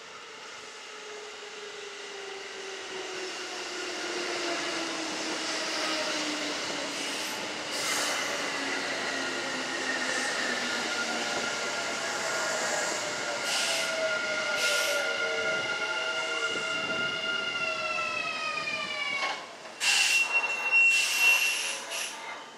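Kintetsu electric train's traction motors whining, the pitch falling steadily over about nineteen seconds as the train brakes, the whine dropping away at the end. A loud burst near the end carries a steady high squeal, typical of brakes or wheels as a train comes to a stop.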